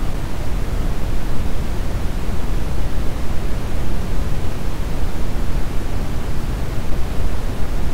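Brown noise: a steady, even rushing hiss weighted heavily toward the low end, with no changes.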